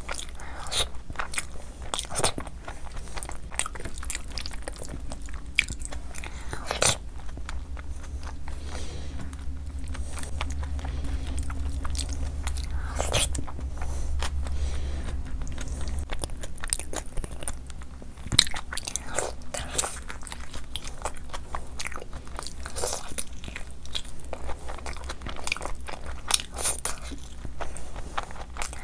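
Close-up eating sounds: chewing a mouthful of khichdi and curry eaten by hand, with frequent wet smacks and sharp mouth clicks.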